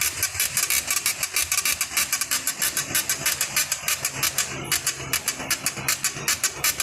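Engine running with a fast, even ticking from the drive-belt tensioner as it is shifted with a spanner. The belt has shifted a little off its pulley, and the noise is taken for a fault in the tensioner.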